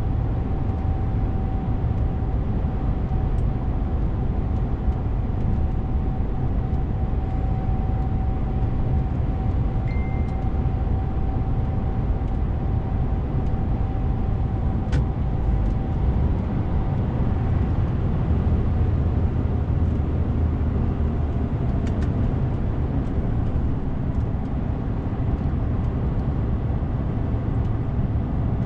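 DAF CF 450 truck on the move: steady engine and road rumble, with a faint steady whine that fades out about two-thirds of the way through and a couple of light clicks.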